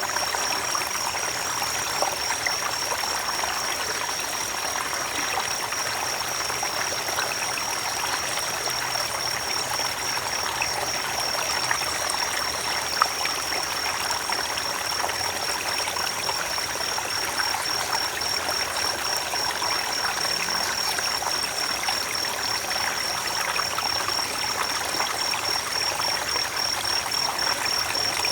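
Creek water running steadily over stones, an even rushing and trickling. A steady high-pitched tone with a fine pulse sounds over it throughout.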